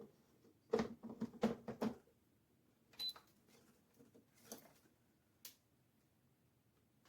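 A series of short, sharp clicks and knocks, several close together in the first two seconds, then a few more spaced out, with a brief high beep-like tone about three seconds in.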